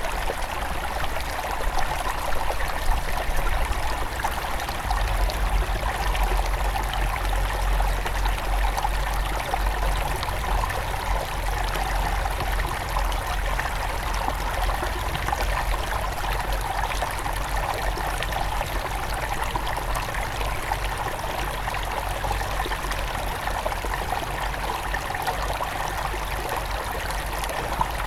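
Small mountain stream flowing steadily over rocks, a continuous splashing and trickling rush with a low rumble underneath.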